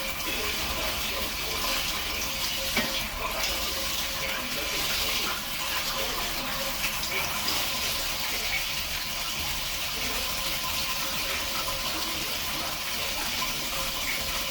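Water running steadily from a tap, with a brief knock about three seconds in.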